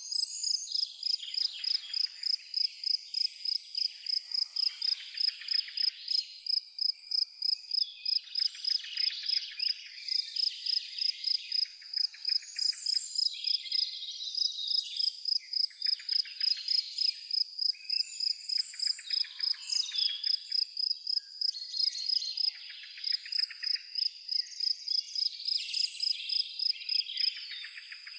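A cricket chirping steadily on one high note, about three chirps a second, while birds sing in short, varied phrases over it.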